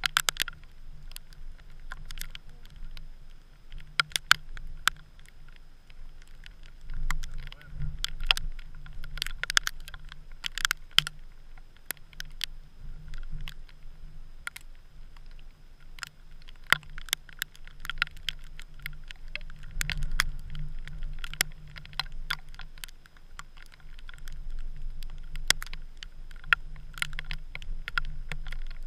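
Wind rumbling on the camera in a snow storm, with many irregular sharp clicks and taps, and a faint steady high whine.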